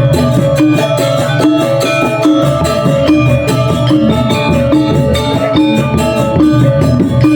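Balinese gong gamelan playing a tabuh alus: bronze metallophones and gong-chimes ringing in a fast, even stream of notes over a low pulsing drum and gong.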